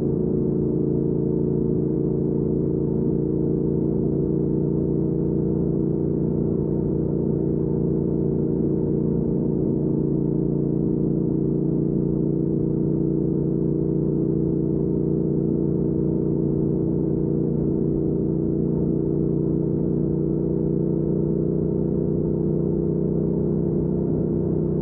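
Triumph Speed Twin 1200's parallel-twin engine through a Weslake Shorty Pro exhaust, running at a steady cruising speed: an even, muffled drone that holds the same pitch and level throughout.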